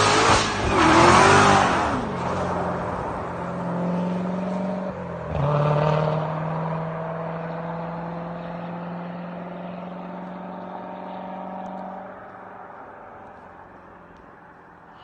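Supercharged 6.2-litre LT4 V8 of a C7 Corvette Z06 revved hard, its pitch wobbling at the top as if held against the rev limiter, then dropping back. About five seconds in it is blipped once more, then settles to a steady idle that fades from about twelve seconds on.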